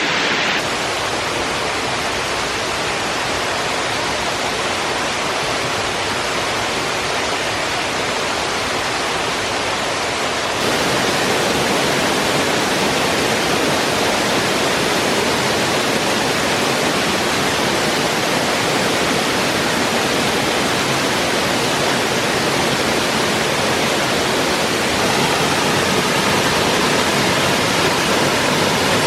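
Waterfall: a steady, even rush of falling water that gets louder about ten seconds in.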